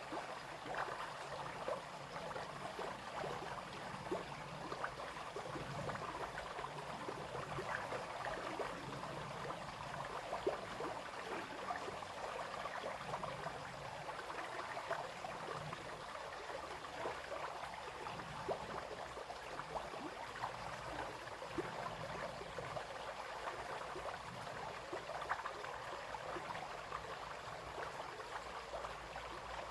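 Small brook flowing and babbling, a steady run of water with many little splashes and gurgles.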